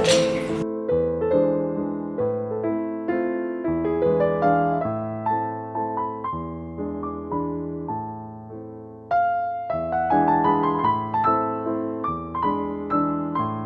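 Background piano music: a gentle melody of separate notes, each ringing and fading. Under a second in, a hiss of running water cuts off.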